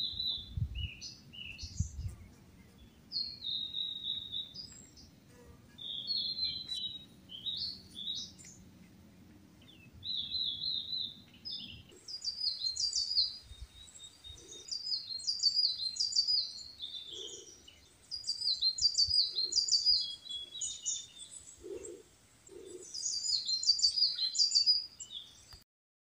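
Wild birds singing: repeated high whistled phrases, then, after an abrupt change about halfway through, denser runs of quick, falling high notes with a few separate low calls underneath.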